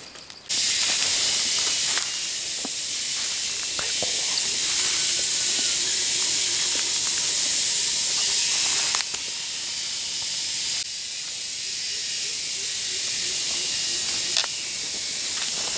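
A loud, steady high-pitched hiss that starts abruptly about half a second in and holds with only small shifts in level.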